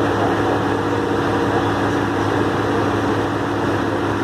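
Heavy truck engine running steadily, a constant drone with several held low tones.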